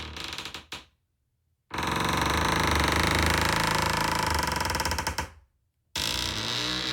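Old wooden ship timbers creaking in separate long creaks, each a fast, grating ratchet of tiny clicks. One creak fades out about a second in, a long one runs for about three and a half seconds, and another begins near the end, with silent gaps between them.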